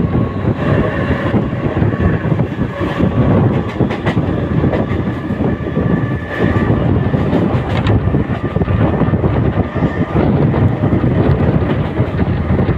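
Mumbai suburban electric multiple-unit (EMU) local train running along the track, a steady loud rumble with irregular wheel clatter and a faint steady whine.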